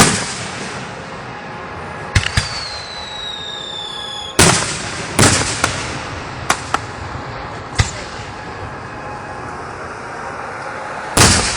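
Fireworks going off: a string of sharp bangs, with a high whistle falling slowly in pitch for about two seconds before one of the loudest bangs, and another big bang near the end.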